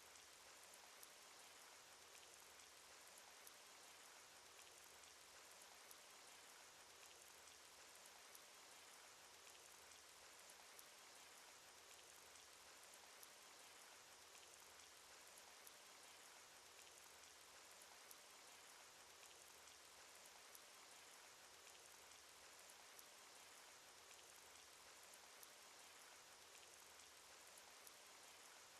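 Faint, steady cartoon rain sound effect: an even hiss of rainfall with scattered small drop ticks.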